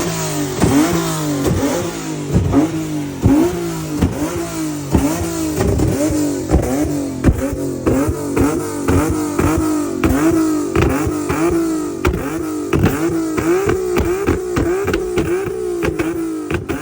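A car engine revving hard and repeatedly during a burnout, its pitch dipping and climbing back about twice a second.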